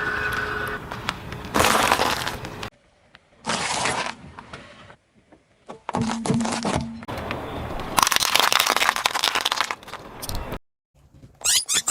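Objects cracking and breaking as a car's tyres crush them, in several short bursts that start and stop abruptly.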